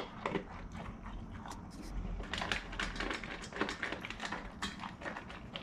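Golden retriever eating dry kibble and green beans from his bowl: quick, irregular crunching and clicking as he chews and noses the food.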